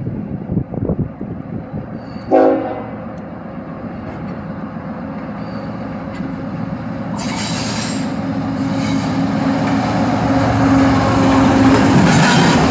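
Canadian Pacific freight train's diesel locomotive approaching: a short horn blast a couple of seconds in, then the engine's drone growing steadily louder. Wheel and rail noise builds over the second half as the train draws close.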